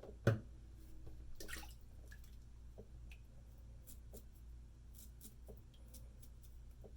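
Straight razor drawn through lathered stubble in a few faint, short scraping strokes, with soft wet lather sounds.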